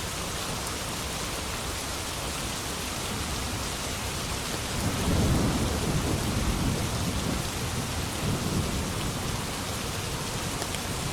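Steady heavy rain, with a roll of thunder rumbling in about five seconds in and fading over the following few seconds.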